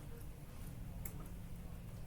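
Quiet classroom room tone: a steady low hum with a few faint clicks, about a second in.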